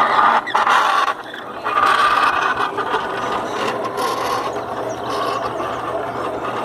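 Homemade sugarcane mill driven by a small washing-machine electric motor, running with a steady hum under a gear-like mechanical rattle. The rattle surges unevenly in the first few seconds, then settles steadier.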